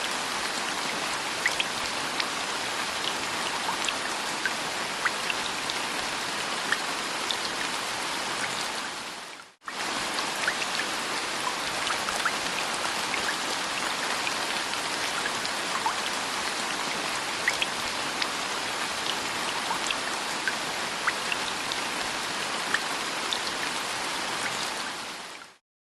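Steady rain with individual drops heard hitting. It drops out briefly about nine and a half seconds in, comes back, and fades out near the end.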